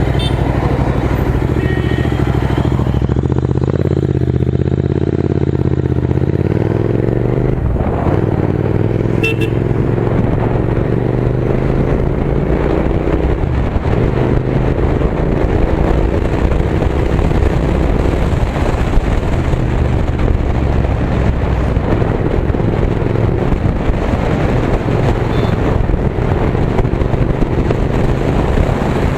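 Royal Enfield Continental GT 650's 648 cc parallel-twin engine running through an AEW TE 102 aftermarket exhaust with the dB killer removed, heard while riding. The exhaust note climbs in pitch, drops back about eight seconds in and again a few seconds later, and keeps climbing, as the bike pulls through the gears.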